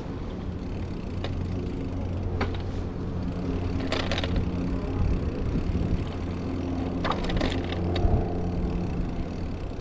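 Steady low hum of a running vehicle engine, with a few sharp clicks or rattles, about four seconds in and twice around seven seconds in.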